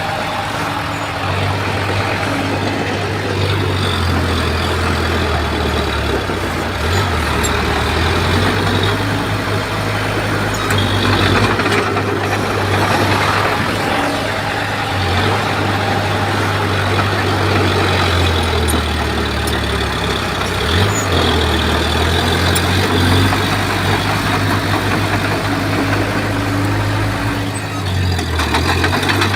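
Heavy diesel engine of a Komatsu bulldozer running under load, its low note rising and falling as it works.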